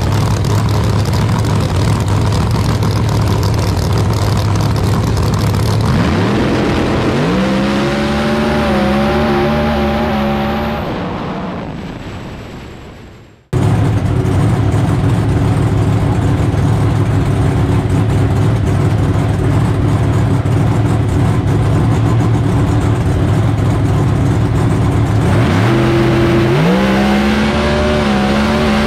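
Drag race car engines running loud and steady at the line, then launching: a rising engine note about six seconds in that fades as the cars pull away. After an abrupt cut the steady engine noise returns, and another hard acceleration with climbing pitch starts near the end.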